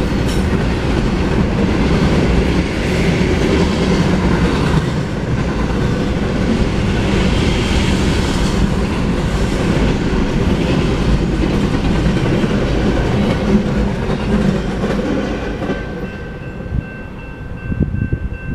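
Double-stack intermodal freight cars rolling past over the rails, a loud steady rumble. About two seconds before the end the last car clears and the rumble falls away, leaving the grade crossing's warning bell ringing as a steady high tone.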